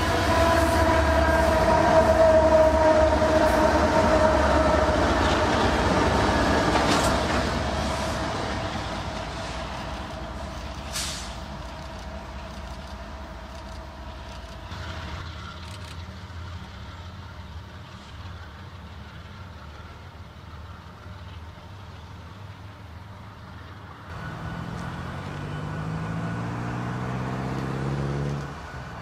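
Freight train rolling past with a heavy rumble and a steady high ring that slowly sinks in pitch and fades over the first dozen seconds. Later a motor vehicle's engine revs up steadily for a few seconds and cuts off sharply near the end.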